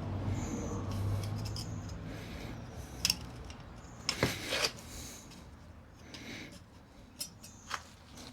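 Small metal parts of a motorcycle exhaust clamp clip being handled and worked into place: scattered sharp clicks and short scrapes, the clearest about three seconds in and again just after four seconds. A low hum fades out over the first few seconds.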